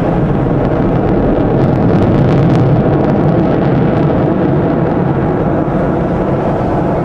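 Aircraft engine roar from a display flying past: a loud, steady rumble that swells about two to three seconds in and then eases slightly.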